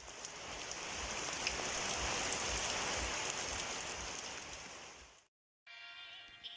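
Steady rain falling, fading in at the start and fading out about five seconds in. After a brief silence, soft music starts near the end.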